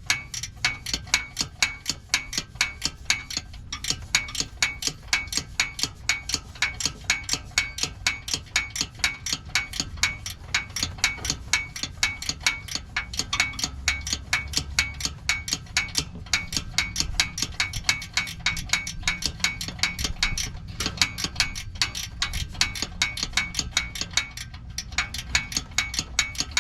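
Hand ratchet clicking steadily as it backs out the 12mm bolts holding the exhaust brace, about four or five clicks a second, with a few short pauses.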